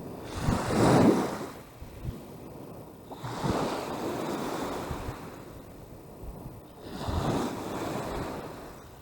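Strong gusting wind and lake waves washing on the shore, rising and falling in three swells of rushing noise.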